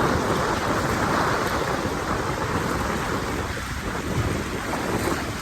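Wind buffeting the microphone over the steady wash of surf, a continuous rushing noise with a low rumble.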